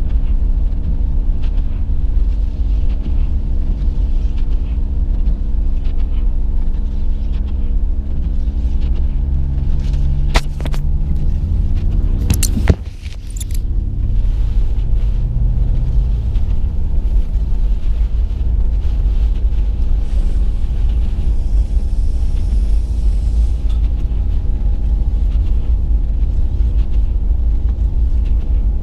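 Inside a car's cabin while driving through deep snow: steady low engine and road rumble with a constant hum. A few sharp knocks come a little before the middle, the loudest about 13 s in, after which the noise briefly drops.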